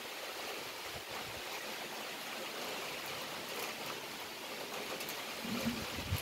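Heavy rain falling steadily in a downpour, with a couple of dull knocks near the end.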